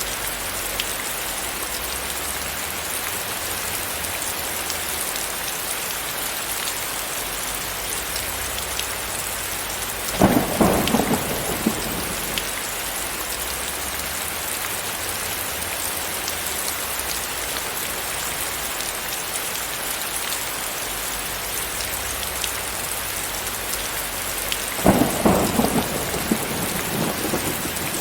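Steady, heavy rain, with two short claps of thunder: one about ten seconds in and another near the end.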